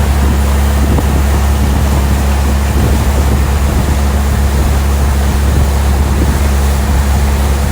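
Small boat's outboard motor running steadily with a deep, even hum, with wind and rushing water over it.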